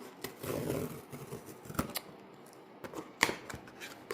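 A cardboard blind box being opened by hand: soft rustling of packaging, then a few sharp clicks and snaps of cardboard.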